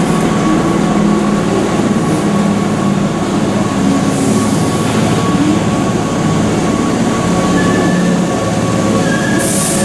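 Keihan Railway electric commuter train pulling slowly into an underground station platform and drawing to a stop, with a steady running rumble and a thin whine. There is a short hiss near the end.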